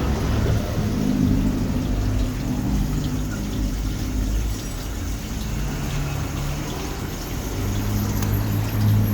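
Water running and splashing into a small koi pond, over a steady low hum.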